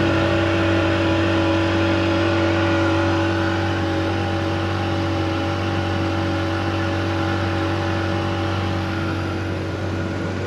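A steady engine drone holding one pitch throughout.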